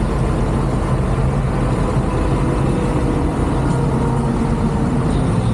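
Car engine running steadily at low speed, a constant low hum with no revving.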